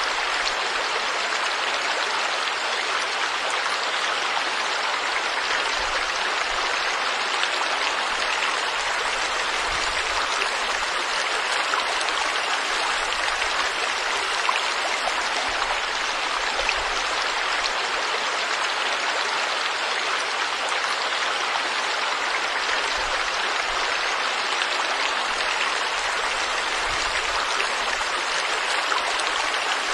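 Stream water flowing steadily over rocks, an even rushing sound with no pauses.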